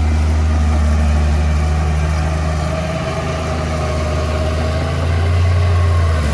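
Diesel engine of heavy earthmoving machinery running steadily with a low, even hum. A faint higher whine sits over it, and the engine eases slightly about three seconds in, then picks up again near the end.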